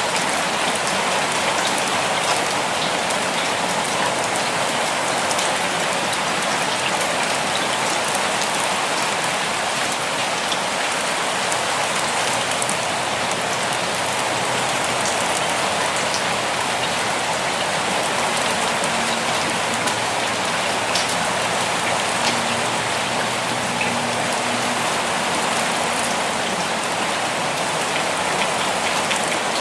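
Steady rainfall, a dense even hiss of drops with fine scattered patters from individual drops landing on surfaces.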